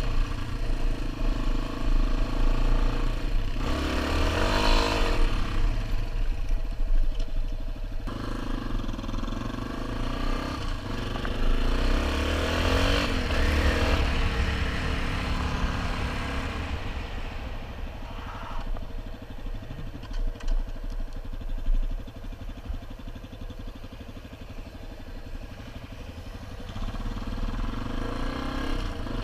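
Dual-sport motorcycle engine running under riding, revving up and easing off a few times. It drops to a quieter, steadier note for several seconds in the second half, then picks up again near the end.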